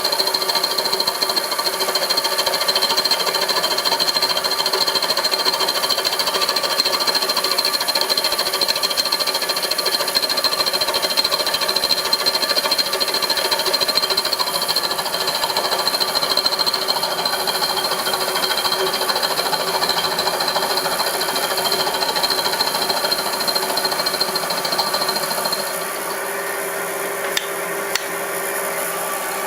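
Homemade milling machine running steadily, a mechanical whine with a high steady tone over it. Near the end the high tone fades and the sound drops a little, followed by two sharp clicks.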